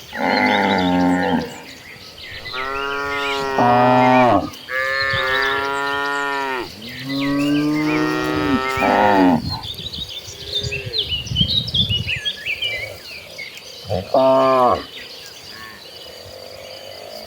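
Cattle mooing: four long moos one after another in the first nine seconds, then a short moo near the end, with faint high chirping in the gap between them.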